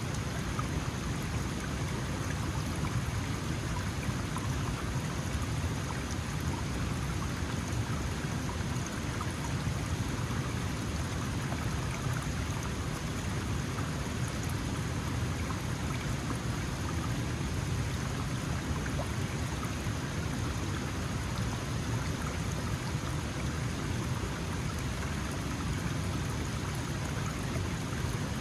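Small mountain stream flowing: a steady, even rush of water.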